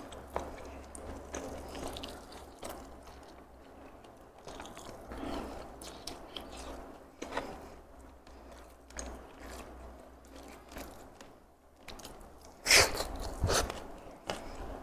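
Close-miked chewing and crunching of a mouthful of nasi lemak with fried chicken and crispy anchovy sambal, with small clicks from fingers handling the food. A louder crunchy burst comes near the end.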